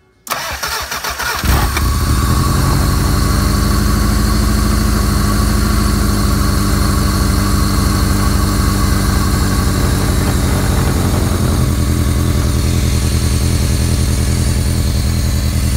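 Toyota 5S-FE 2.2-litre 16-valve four-cylinder engine of a 1992 MR2 turning over on the starter for about a second, then catching and settling into a steady idle. This is its first start after an oil pump, cam seal and timing belt replacement, with the timing set right.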